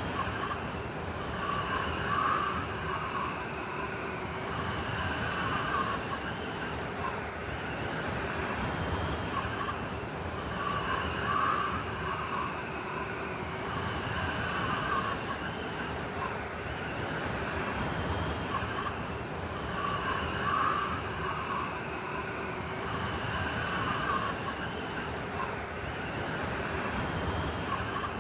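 Blizzard wind: a steady rushing noise with brighter whistling swells that come back about every nine seconds.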